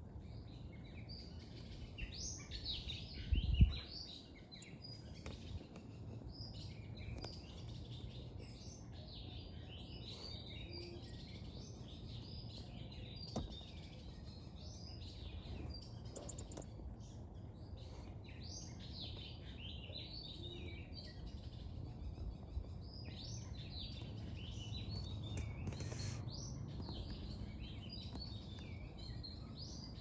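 Small birds chirping and calling in quick, high-pitched, overlapping notes, thinning out for a while mid-way and then picking up again. A single low thump a few seconds in is the loudest sound, over a steady low rumble.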